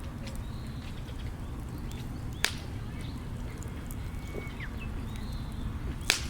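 Wood campfire burning with a steady low rumble, a burning log popping sharply about two and a half seconds in and again near the end, with a few fainter crackles between.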